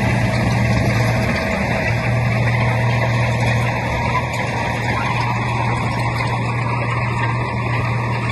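Heavy diesel engine of earthmoving machinery running steadily under load, a deep continuous drone that dips briefly about a second and a half in.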